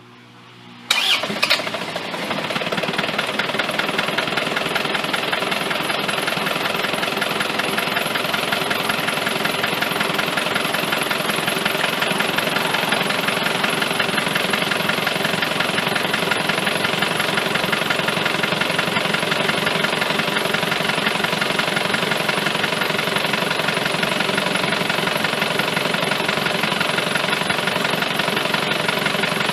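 Isuzu D-Max engine, with its valve cover off, starting about a second in and then idling steadily.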